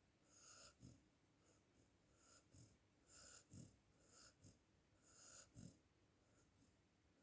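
An Australian Shepherd snoring faintly in its sleep: a string of short, snuffling breaths, one every second or two.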